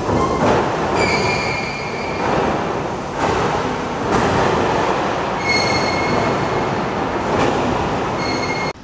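Hurricane-force wind gusting hard, swelling and easing, with a high whistle that comes and goes over the gusts.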